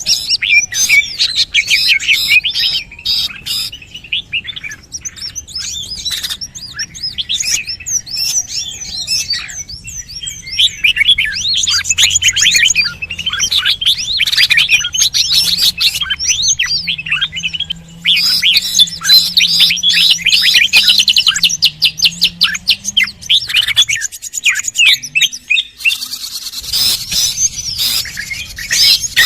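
Many small birds chirping and twittering in a dense, rapid chorus of high calls, as played from a bird-lure recording, with a few brief lulls.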